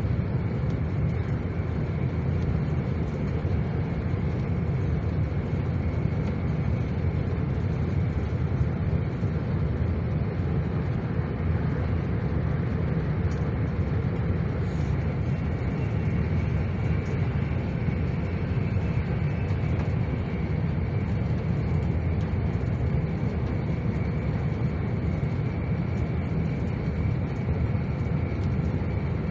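A moving train: a steady rumble, with a faint high whine held over it.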